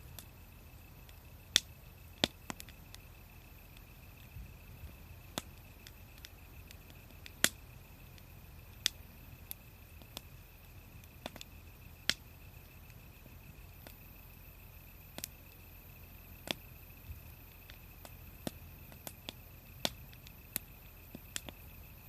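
Wood fire crackling, with sharp pops coming at irregular intervals, roughly one every second or so.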